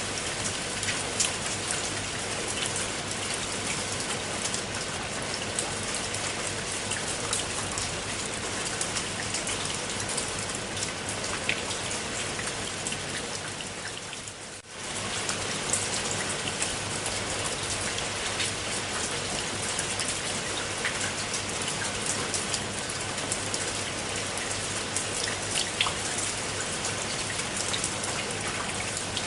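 Steady rain falling on a pool of water, a constant hiss of drops with scattered sharper drop ticks. It fades down briefly about halfway through and comes back.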